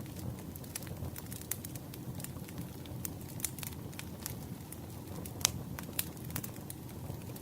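Campfire burning: a steady low rumble of flames with irregular sharp crackles and pops from the burning wood, one pop louder than the rest about five and a half seconds in.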